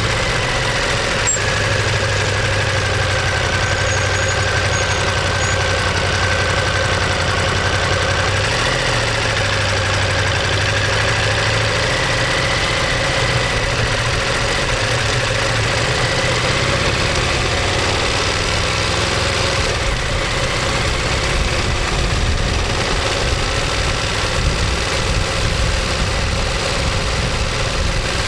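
Ducati Monster 1200S's L-twin engine and exhaust running steadily, the engine note holding nearly constant with only slight slow shifts in pitch.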